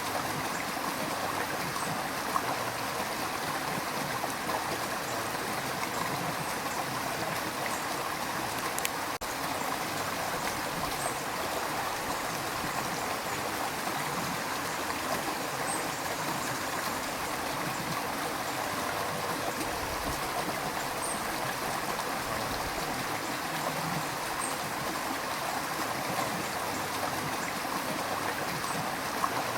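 River water rushing and gurgling over stones in a steady, unbroken flow.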